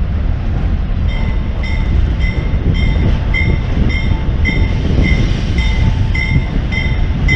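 Freight train rolling past, a steady low rumble of rail cars on the track; the cars sound empty. From about a second in, a bell rings evenly about twice a second.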